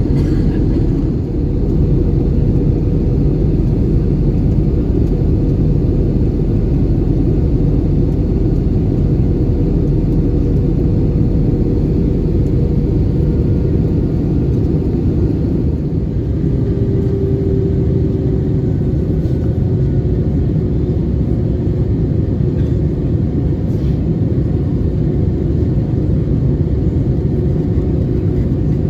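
Steady, loud low rumble of an Airbus A320-200's cabin noise heard from an economy seat: the engines and the air rushing past the fuselage, with a faint steady hum on top.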